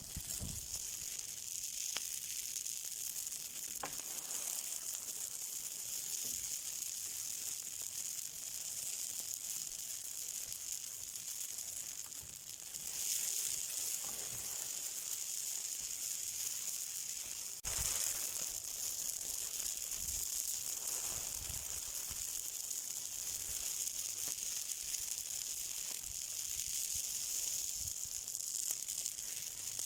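Something burning, with a steady high hiss and a few sharp crackles, the strongest about 18 seconds in.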